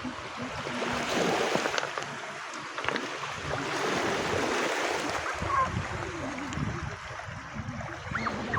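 Ocean surf washing up on a beach: a steady rush of breaking waves that swells and eases.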